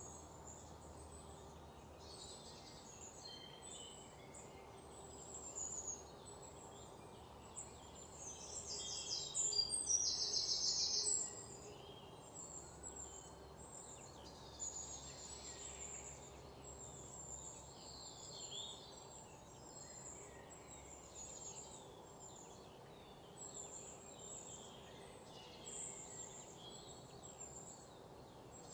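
Small birds chirping and calling over a steady low background hiss, with one louder run of rapid, closely repeated notes lasting about three seconds near the middle.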